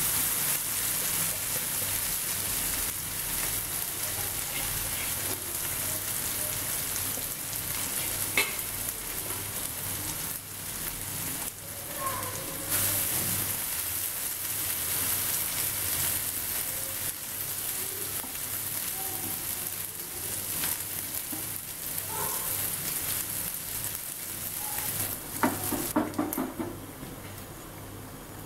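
Dried anchovies sizzling as they shallow-fry in hot oil in a nonstick pan, with a spatula now and then scraping and knocking against the pan as they are stirred. The sizzle quietens near the end.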